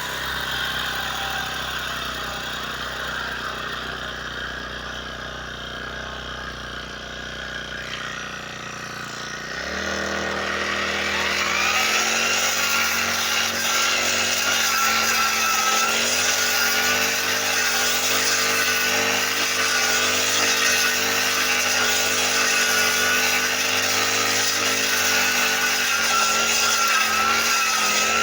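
Engine of a brush cutter (grass trimmer) running at low throttle, then revved up about ten seconds in and held at a steady high speed.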